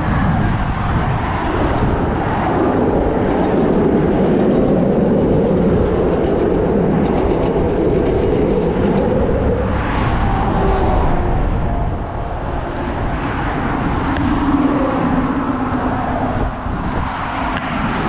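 Steady vehicle rumble: a low-pitched noise with no clear engine note.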